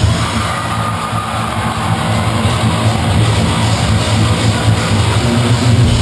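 Live metalcore band playing loud, with electric guitars to the fore over a dense low end. No vocals come through.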